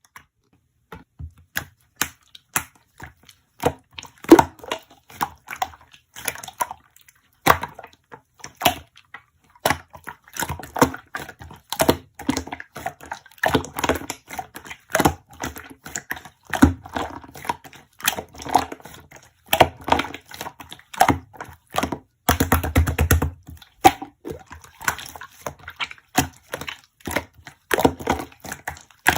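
Irregular series of sharp clicks, taps and crunches, several a second, with a short denser crackling stretch about three-quarters of the way through.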